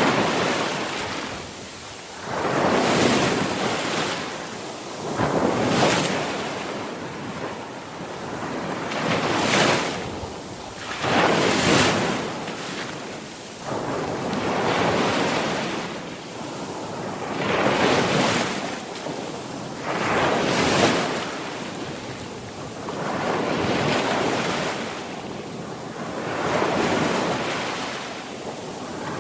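Sea surf: waves breaking one after another, each a rushing swell of water that rises and falls away, about every two to three seconds.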